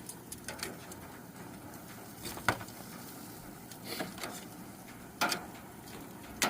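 A few scattered light knocks and clicks, the sharpest about two and a half seconds in and another just after five seconds, over a quiet background.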